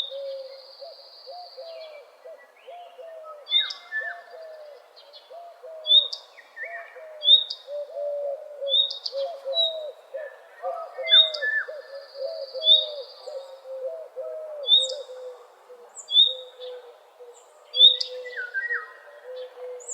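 Several wild birds singing together. Sharp high chirps repeat every second or two over a low, fast run of short notes. Twice a long high note is held for about two seconds.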